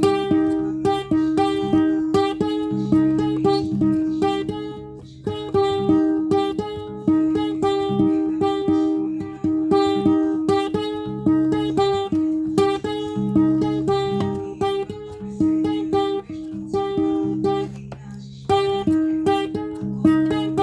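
Guitar music: single plucked notes picked in a repeating pattern over held low notes, with a brief pause near the end.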